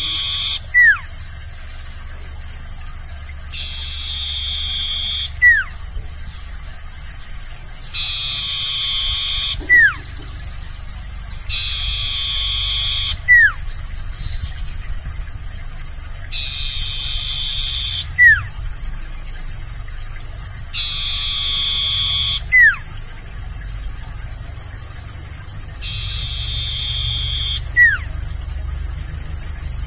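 Sirtu bird calling over and over: each call is a raspy, hissing phrase of about a second and a half, ending in a quick whistle that falls in pitch. It repeats about every four to five seconds, over a steady low hum.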